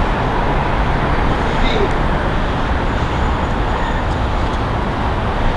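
Steady road traffic noise, a continuous rumble with no distinct events.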